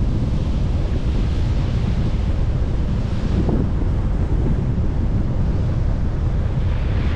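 Steady low road and engine rumble of a moving vehicle heard from inside the cab, with a hiss of tyre or passing-traffic noise swelling near the end.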